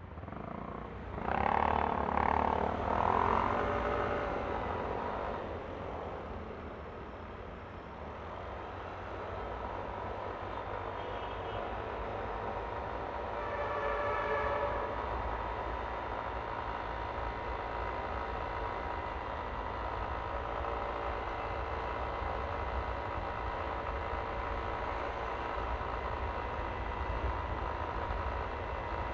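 Yamaha Aerox V3 scooter on the move, with a steady low rumble of engine and wind throughout and a faint even whine. A loud pitched sound comes twice, about two and three seconds in, and a fainter pitched sound comes about halfway through.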